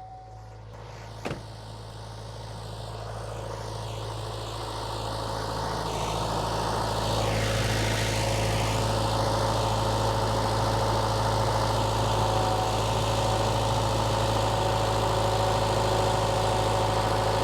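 Case 1840 skid steer's diesel engine revving up and coming under load, getting louder over the first several seconds and then holding steady, with one sharp click about a second in. The engine is being worked hard to help seat its piston rings after it had been smoking.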